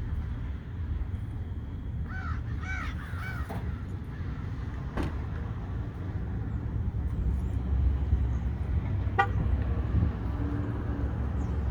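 A seagull calling: a quick run of about four short, arching cries about two seconds in, over a steady low rumble, with two sharp clicks later on.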